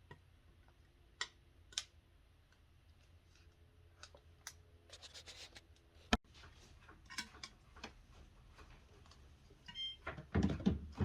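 Scattered light clicks and taps of plastic and metal parts being handled while refitting a refrigerator's evaporator fan assembly. There is one sharp click about six seconds in and louder clattering near the end.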